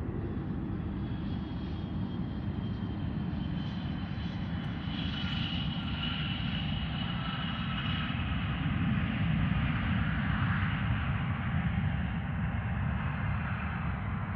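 Airplane engine noise: a steady low rumble with a faint high whine, growing louder through the middle as the aircraft passes.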